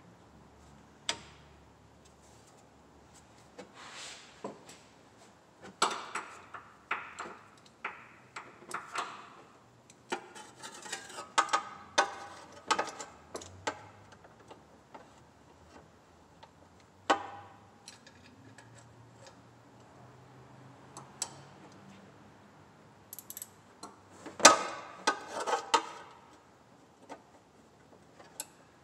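Socket ratchet clicking in short runs, with scattered clinks of metal tools, as a spark plug is worked on by feel in a tight spot.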